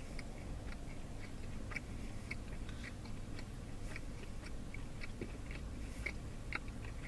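Close-up chewing of beef jerky: irregular soft wet mouth clicks as the meat is worked, several a second, over a low steady hum.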